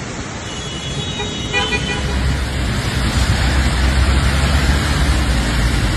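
A car horn sounds briefly about a second in, over a steady rushing street noise of flood and traffic. A deep rumble joins in from about two seconds.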